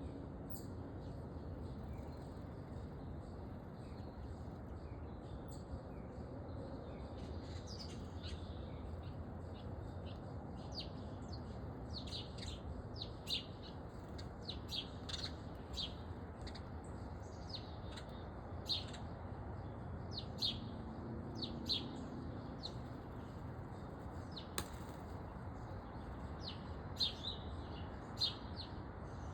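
Small songbirds calling with short, high chirps and chip notes, sparse at first and coming thick and fast from about halfway in, over a steady low background rumble.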